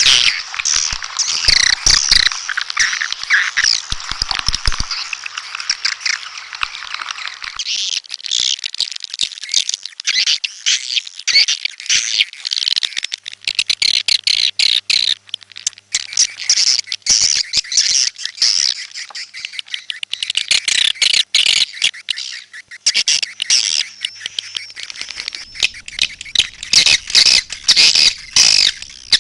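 Swiftlets twittering in a dense, continuous chatter of rapid high chirps and squawks. A lower, fuller layer of the chatter drops out about seven seconds in.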